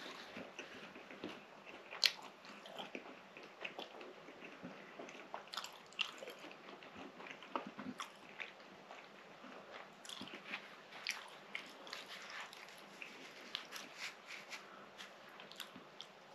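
A person biting into and chewing a soft baked fatayer pastry filled with minced meat (keema), close to the microphone, with many small mouth clicks and crackles; the loudest bite comes about two seconds in.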